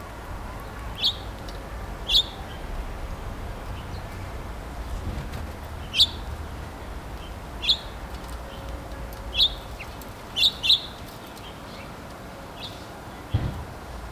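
Backyard songbird giving single sharp chip calls, about nine in all, irregularly spaced a second or two apart, each a quick downward-sliding chip.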